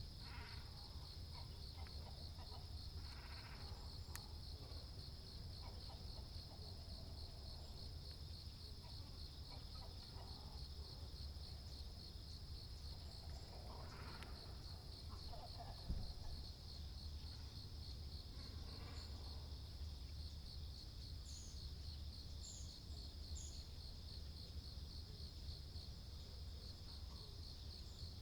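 A steady, high-pitched pulsing insect trill, with a few short waterbird calls now and then and a single knock about midway.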